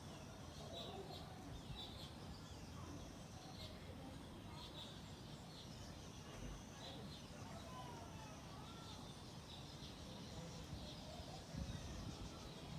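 Faint birds chirping over a low steady background.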